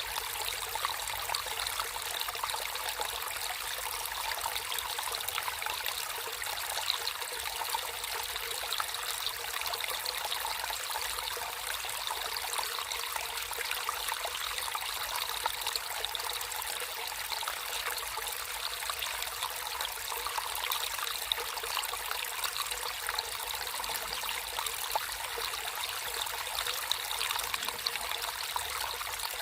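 Water flowing naturally in a small stream, trickling and babbling steadily, light and splashy with no deep rumble.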